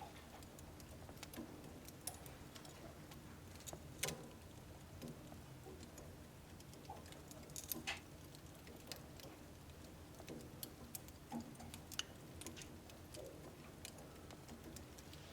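Wood fire in a home wood-burning stove crackling softly, with irregular sharp pops over a low steady murmur; the loudest pops come about 4 and 8 seconds in.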